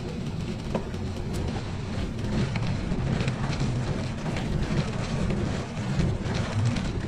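Bicycle riding along a trail: a steady low rumble of tyres and frame, with many small clicks and rattles.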